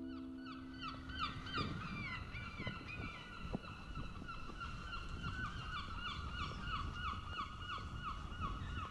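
Birds calling in a long, quick run of short, falling notes, several a second, over a low rumble of wind on the microphone. A last ukulele note dies away in the first second or so.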